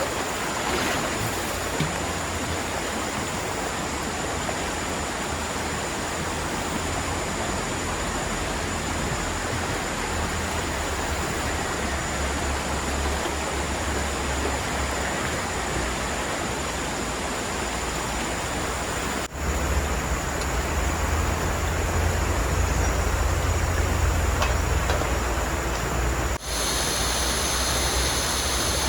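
Steady rush of flowing river water. The sound breaks off sharply twice, about 19 and 26 seconds in, and has a stronger low rumble after the first break.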